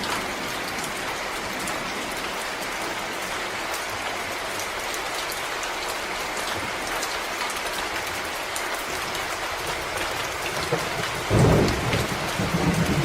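Steady rain falling in a forest, drops pattering on leaves and ground with scattered individual drips. Near the end a sudden low rumble breaks in and goes on more faintly.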